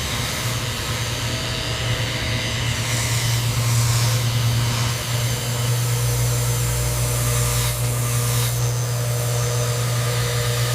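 A steady low mechanical hum with a hiss over it, like a running machine.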